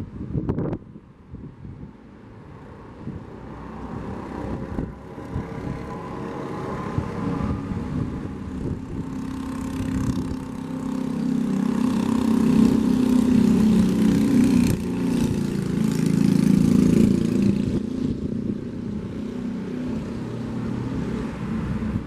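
A motor vehicle driving past on a seaside road: its engine hum slowly grows louder, is loudest a little past halfway, then fades as it moves away. The sea and wind noise sit underneath.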